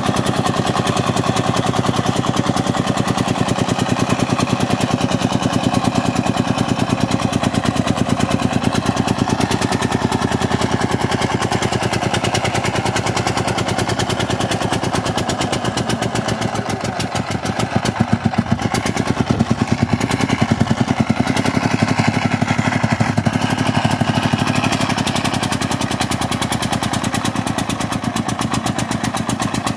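Công nông farm truck's single-cylinder diesel engine chugging steadily in a fast, even beat. The beat dips and then picks up again briefly about halfway through.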